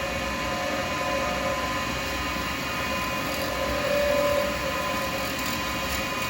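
Wood lathe running steadily with an even hum and a few fixed whining tones as it spins an acrylic pen blank, swelling slightly about four seconds in.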